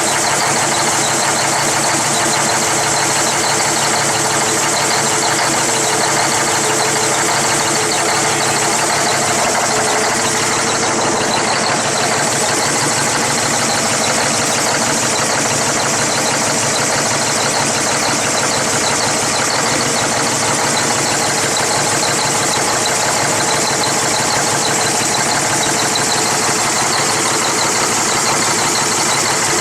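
Cummins ISX CM871 inline-six diesel engine idling steadily just after a start, with a freshly replaced injector and a fuel system that was rather dry. It runs pretty rough for a little while before settling.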